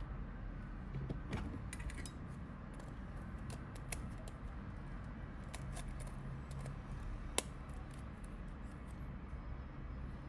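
Small clicks and light taps of tools and Nokia 3310 parts being handled during repair, with one sharper click about seven seconds in, over a steady low hum.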